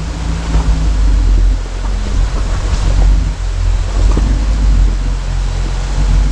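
Jeep engine running low on a trail, with wind rumbling on the microphone.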